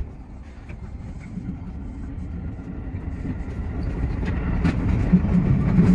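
Keio 8000 series electric train pulling away from a station and picking up speed, its low running rumble growing steadily louder, heard from the front of the car. A sharp click comes right at the start.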